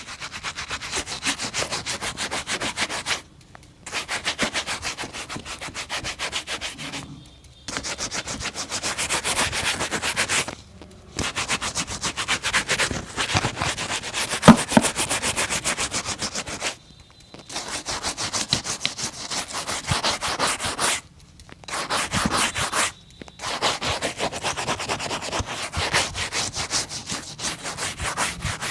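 Rapid back-and-forth brushing on a shoe, in runs of a few seconds broken by short pauses, with one sharp knock about halfway.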